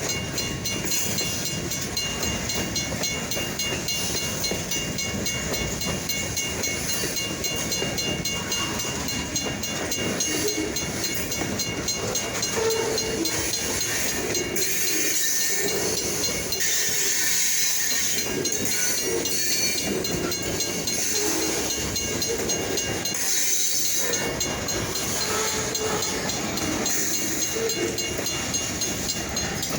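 Freight cars rolling through a grade crossing: steady wheel-on-rail noise with hissing and brief squeals around 16–18 s and 23–24 s, under the crossing's old mechanical bell ringing.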